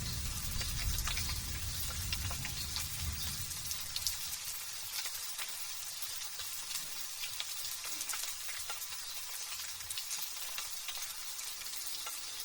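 Light drizzle falling: a steady hiss speckled with small drop ticks. A low rumble of thunder fades out over the first few seconds.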